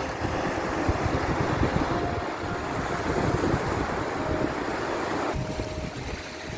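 Sea waves washing in, a continuous rush of surf that thins a little near the end.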